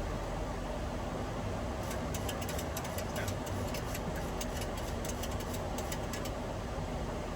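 Steady in-flight flight-deck noise of a Boeing 737-800: an even rush of airflow and air conditioning. A run of irregular faint clicks comes through from about two seconds in to about six seconds in.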